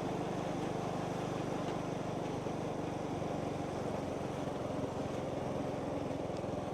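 Motorbike engine running at a steady cruising speed, with road and wind noise, a constant hum that holds even throughout.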